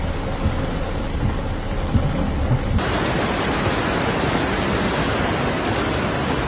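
Steady rushing noise of heavy rain and water, with low rumbling in the first few seconds. About three seconds in it changes abruptly to a brighter, fuller hiss.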